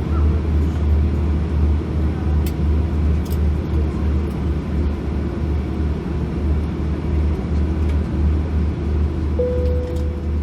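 Steady low engine rumble heard from inside a vehicle, with a few faint clicks. A short steady tone sounds near the end.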